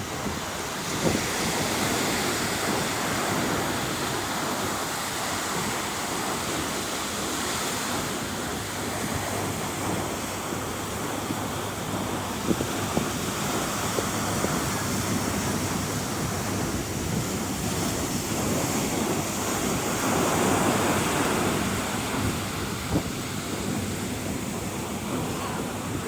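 A steady rush of water and wind, with wind buffeting the microphone. It swells louder about twenty seconds in.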